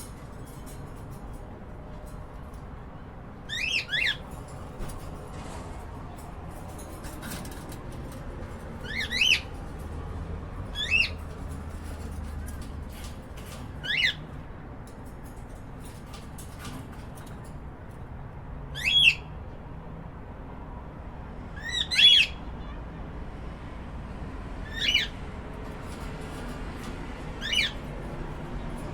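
Pet cockatiels giving short, sharp chirping calls, about eight of them spread out every few seconds, over a steady low room hum.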